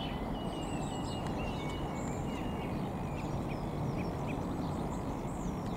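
Several songbirds chirping and whistling in short phrases over a steady low rumble.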